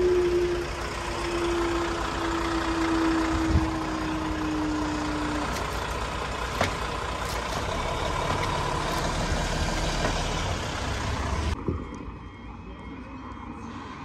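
A diesel train runs past with steady engine noise. A single engine tone slowly falls in pitch and fades out about five seconds in, and the noise drops away sharply near the end.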